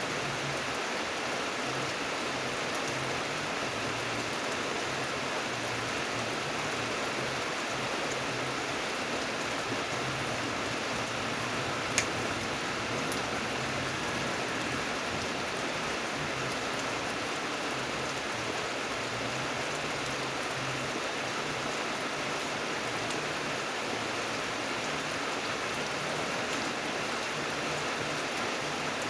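Steady rain falling, an even hiss of many drops with no let-up. A single sharp tick stands out about twelve seconds in, with a fainter one a second later.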